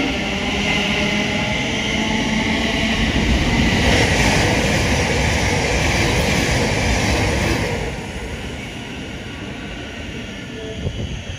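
Thameslink Class 700 electric multiple units running on the tracks close by: a steady rumble of wheels on rail with a faint whine. It is loudest from about four to eight seconds in, then falls off as a train draws away.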